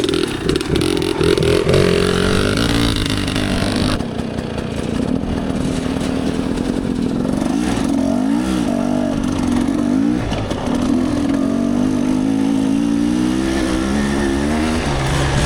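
Dirt bike engine running under load on a trail, its pitch rising and falling again and again as the throttle is worked.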